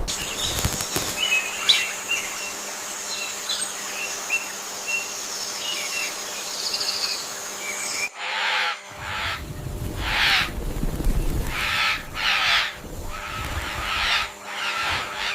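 Jungle birds chirping in short, scattered calls over a steady high-pitched drone. A little past halfway the sound changes abruptly to a run of rough, noisy swells, about one a second, over a low rumble.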